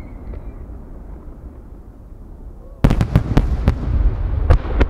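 Large aerial fireworks shells bursting. A low rumble fades for the first few seconds. About three seconds in comes a sudden, rapid string of loud bangs as several big chrysanthemum shells go off together, followed by heavy rumbling and two more bangs near the end.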